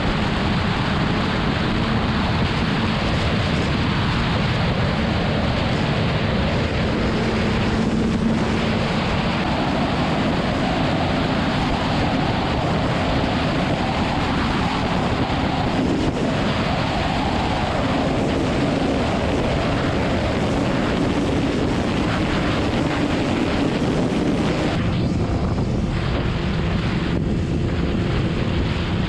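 Wind roaring over the microphone of a motorcycle riding at speed, with the BMW S1000RR's inline-four engine droning underneath; the engine note shifts pitch a few times as the speed changes.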